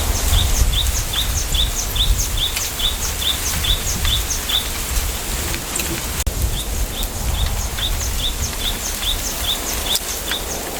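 A small bird repeats a short, high, slightly falling call about three times a second, in two long runs with a short break near the middle. Underneath runs wind through a bamboo grove: a steady low rumble with a rustling hiss.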